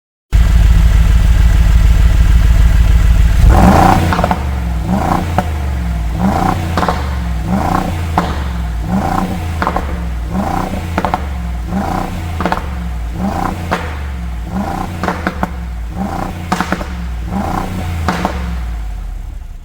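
Mercedes-AMG G63's twin-turbo V8 through a Brabus aftermarket exhaust: a loud, steady deep exhaust note that cuts in abruptly, then from about four seconds in a long run of quick throttle blips, a little more than one a second, each rising and falling.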